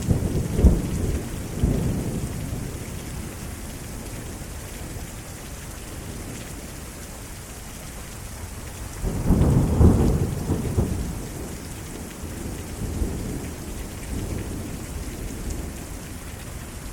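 Heavy thunderstorm rain falling steadily while thunder rumbles and cracks in the first couple of seconds. A louder roll of thunder comes about nine seconds in, and fainter rumbles follow.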